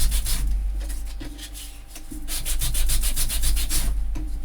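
Edges of a paper piece being scraped with a distressing tool to rough them up, in fast back-and-forth strokes about seven or eight a second, in two bouts: one ending just after the start and another from about two seconds in to near the end.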